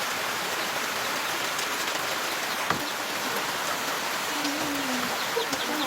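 Steady rain falling, an even hiss, with a single sharp knock nearly three seconds in and a short wavering call near the end.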